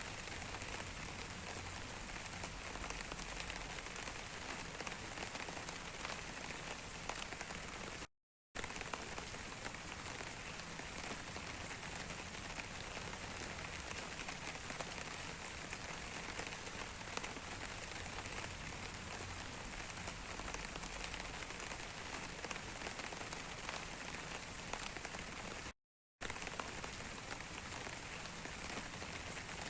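Steady rain falling, an even hiss dotted with many small drop impacts. It cuts out to silence twice, briefly, about 8 and 26 seconds in.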